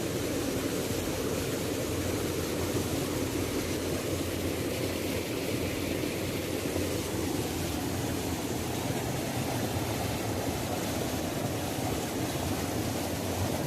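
Waterfall: a steady, even rush of falling water, strongest in the low-middle range.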